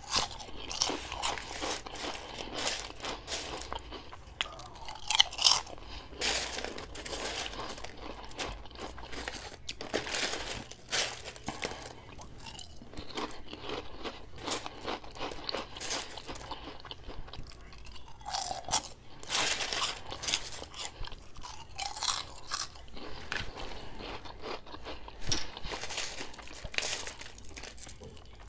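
Close-up crunching and chewing of Munchos potato crisps, bite after bite, with the loudest crunches about five seconds in.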